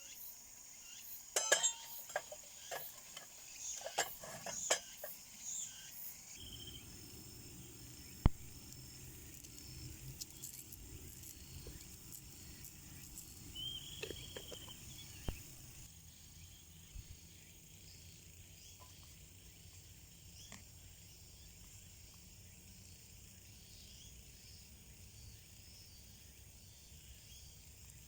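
Crickets and other insects chirping steadily, with a run of small clinks and knocks in the first few seconds and a low hum that starts about six seconds in and stops about halfway through.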